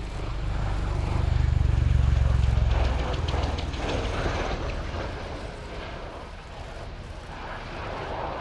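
Bell-Boeing CV-22B Osprey tilt-rotor flying past in aeroplane mode, its two turboshaft-driven proprotors giving a low rumble. The rumble swells to a peak about two seconds in, then fades as the aircraft moves away, with a rapid beating from the rotors along the way.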